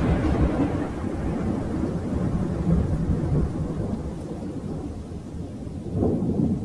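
A deep, rumbling noise that slowly fades, with a brief swell about six seconds in.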